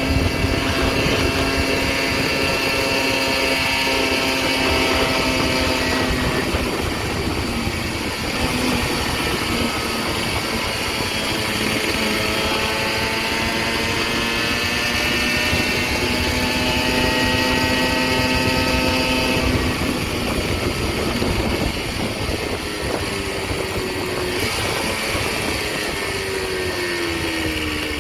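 Tomos 14M five-speed two-stroke moped engine, at 60 cc, running and changing revs: its pitch holds steady, climbs gradually over several seconds, drops about two-thirds of the way in, and falls again near the end.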